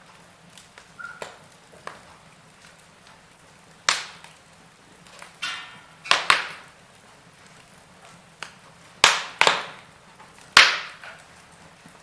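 Wood fire crackling: irregular sharp pops and snaps from the burning logs. A few loud ones come in the second half, with a short sputter about halfway.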